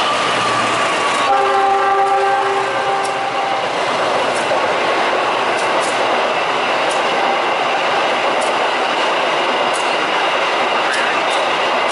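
Diesel-hauled passenger train running through the station at speed: a steady rush of wheels and coaches with regular clicks over the rail joints. A train horn with several tones sounds about a second in and lasts about two seconds.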